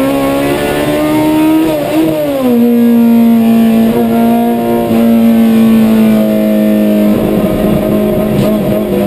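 Honda CRX's B20 non-VTEC four-cylinder engine at high revs under hard acceleration, heard from inside the stripped race-car cabin. The note climbs, drops sharply on an upshift about two seconds in, then holds level and turns rougher about seven seconds in.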